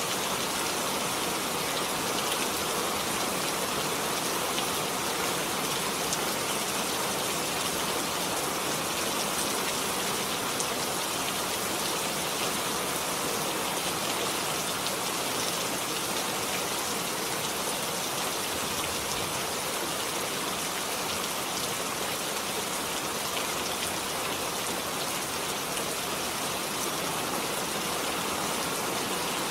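Steady rain falling, an even hiss with fine scattered drop ticks throughout.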